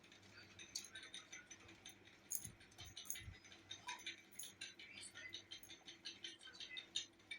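Quiet eating sounds: many small, irregular clicks and smacks, as of food being mixed by hand and chewed, over a faint steady hum.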